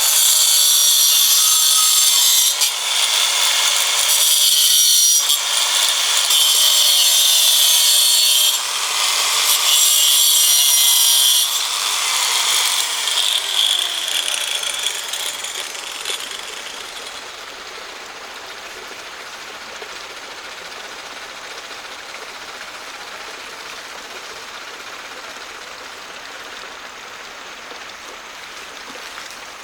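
A tool cutting wood in four loud, hissing passes of two to three seconds each, with short breaks between them. The cutting then tails off, leaving a steady, quieter hiss.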